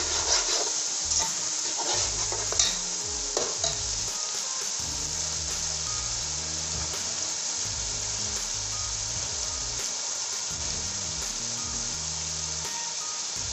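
Tomato-and-yogurt masala frying in a pot and sizzling steadily. A metal spoon scrapes and clicks against the pot a few times in the first few seconds while it is stirred.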